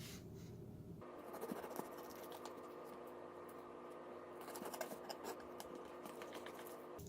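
Knife slicing a raw chicken breast on a cutting board: faint scattered scraping and light taps.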